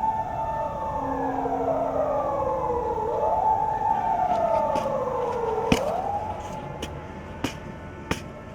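Emergency vehicle siren wailing, its pitch sliding slowly down and back up twice against a second steady tone, then fading out about six seconds in. A few sharp clicks follow near the end.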